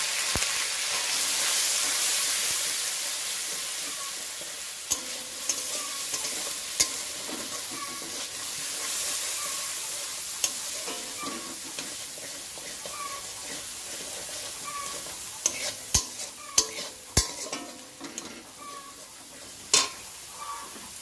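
Ground ginger-and-cumin paste sizzling in hot oil in a metal wok while a metal spatula stirs it, scraping and knocking against the pan now and then. The sizzle is loudest as the wet paste goes in and gradually dies down as it fries.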